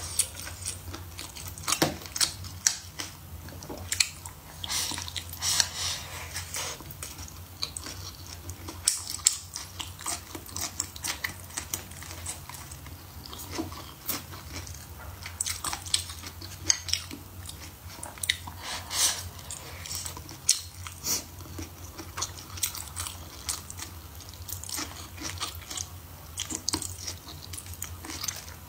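A person chewing mouthfuls of rice and braised pork trotter, with many short, irregular mouth clicks and lip smacks.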